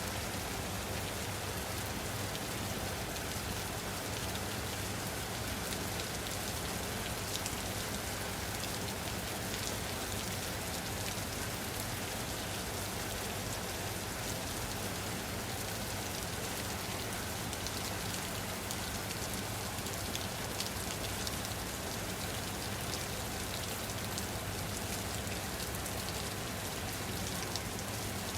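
Steady rain falling on a surface, an even hiss with fine drop patter and no thunder.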